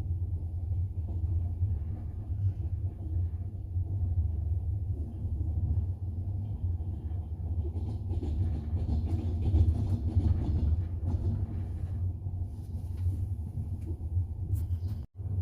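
Double-decker passenger train running, a steady low rumble of wheels on rails heard from inside the carriage. The sound cuts out for an instant near the end.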